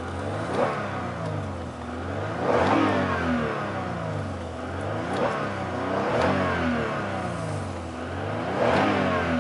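2007 Lexus RX350's 3.5-litre V6 revved while parked, blipped up to around 3,000–4,000 rpm and let fall back several times, heard from the driver's seat.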